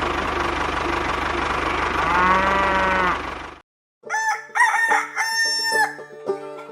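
A steady motor hum with a fast low pulse, with farm-animal calls over it, including a long drawn call about two seconds in. It cuts off suddenly about three and a half seconds in, and after a short gap light music with plucked notes starts.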